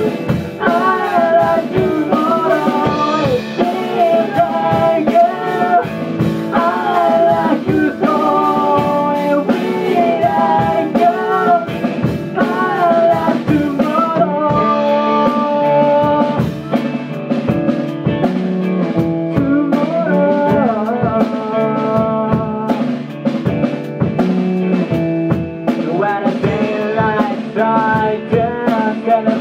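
A rock band song with guitar and drums under a sung lead vocal that is improvised, without finished lyrics. About halfway through, the voice gives way to steadier held instrumental lines, and the singing returns near the end.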